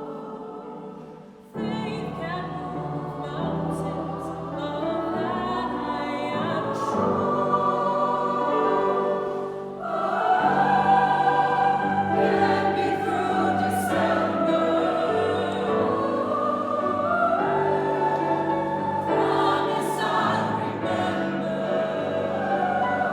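A choir singing, with held chords from many voices. It drops away briefly about a second and a half in, then resumes and grows fuller and louder about ten seconds in.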